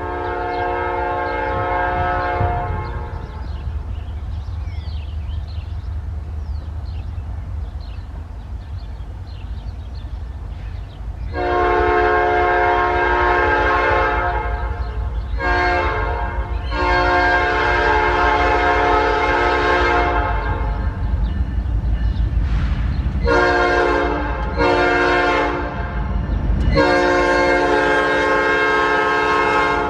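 Norfolk Southern freight locomotive's air horn sounding a series of chord blasts over the steady low rumble of its diesel engine. There is one blast at the start, a mix of long and short blasts from about eleven seconds in, and a final long blast near the end.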